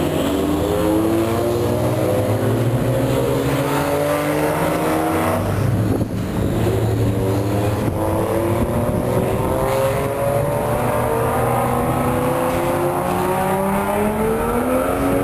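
A car's engine running hard around a race circuit, its pitch climbing steadily, breaking off briefly about six seconds in, then climbing again.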